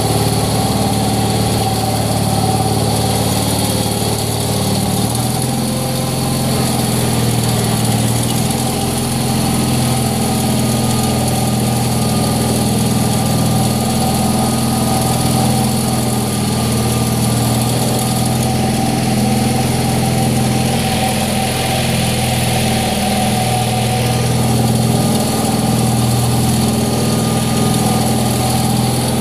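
Wheel Horse Air Horse aircraft tug's small engine running steadily while the tug is driven on its hydrostatic drive, with the engine note shifting slightly about five seconds in.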